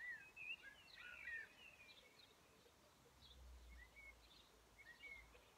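Faint outdoor birdsong: scattered short chirps and twittering calls, densest in the first second and a half, with a faint low rumble in the second half.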